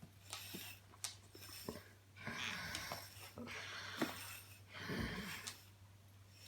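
A German Shepherd's coat being brushed: several short noisy swishes with a few soft knocks.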